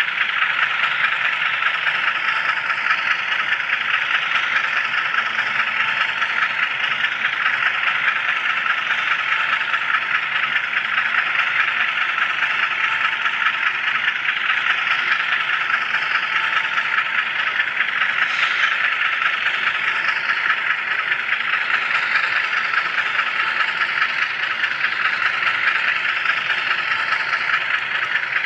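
Steady rattle and hiss of a small HO scale camera car rolling along model railroad track, heard through a microphone riding on the car.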